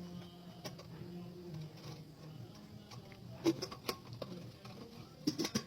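Handling of an air fryer oven and its parts: a few sharp clicks and knocks, with a cluster of them near the end, over a faint low hum.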